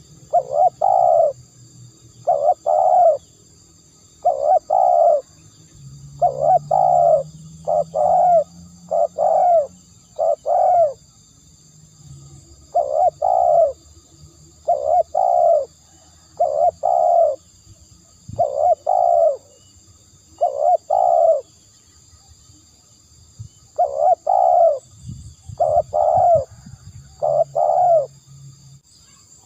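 Spotted dove cooing over and over in short phrases of two or three coos, a new phrase every second or two: a decoy call for luring doves.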